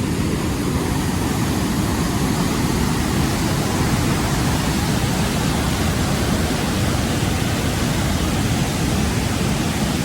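Steady, loud rush of a large waterfall's falling water, an unbroken noise heaviest in the low range.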